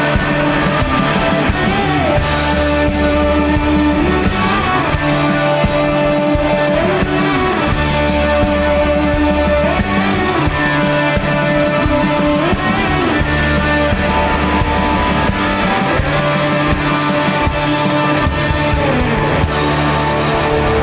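Rock band playing live: an instrumental passage of held melody notes that slide up and down between pitches, over a steady bass line and drums.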